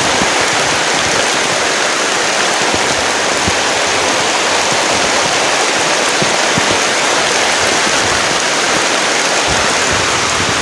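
Heavy rain pouring down steadily, a dense hiss with scattered low thuds of drops striking close by.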